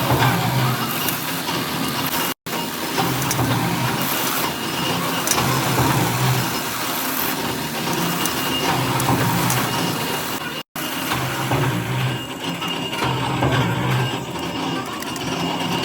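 Workshop machinery running in a bullet-making factory: a dense, loud mechanical clatter with a low hum that swells every two to three seconds. The sound cuts out for an instant twice.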